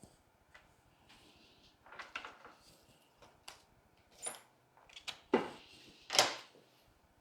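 Rustling and light clicks of rose stems and evergreen sprigs being handled and worked into a floral arrangement, with two louder rustling bursts near the end.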